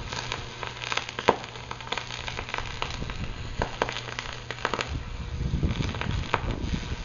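Strong dry wind gusting, with irregular sharp crackling and clicking throughout. A low wind rumble on the microphone swells about five seconds in.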